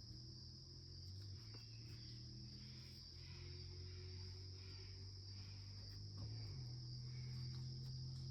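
Insects trilling steadily in one continuous high-pitched band, faint, over a low steady hum that shifts up a little about six seconds in.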